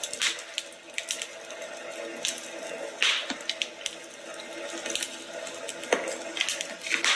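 Wood fire crackling in a fireplace: a steady hiss broken by irregular sharp pops and snaps, the biggest about three seconds in, just before six seconds, and near the end.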